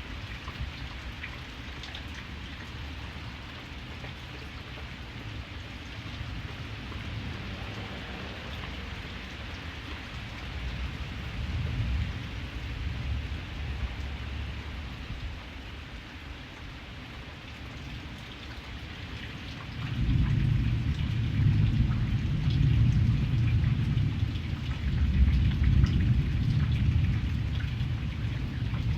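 Steady rain pattering with low rumbling thunder underneath; about two-thirds of the way in a much louder, deep roll of thunder comes in and keeps rumbling.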